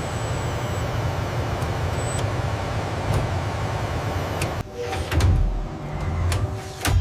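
Steady machine noise with a low hum. About four and a half seconds in it falls away, and a few heavy thumps and sharp clicks follow, the loudest click near the end.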